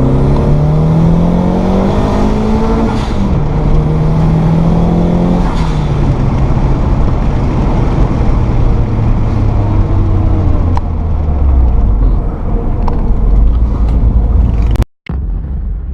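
Nissan Bluebird U12's turbocharged SR20DET four-cylinder through an HKS Silent Hi Power Type S muffler, accelerating: the exhaust note climbs, drops at a gear change about three seconds in, then falls away gradually. It cuts off abruptly near the end.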